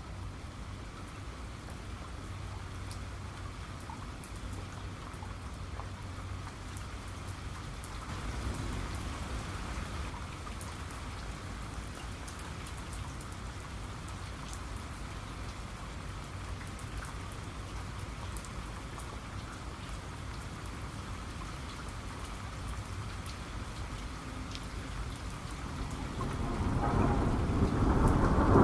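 Steady rain falling, with scattered sharp drops pattering over a constant hiss and a low rumble. Thunder rolls in near the end, swelling louder.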